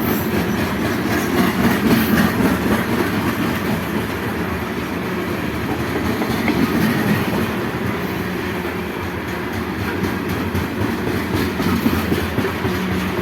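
Locomotive 4615 and its train running on the track, a steady rumble with wheel clatter throughout.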